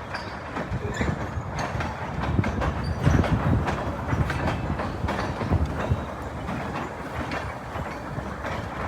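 Freight train rolling past, its wheels clicking over the rail joints with a steady rumble; the clicks are loudest about three seconds in.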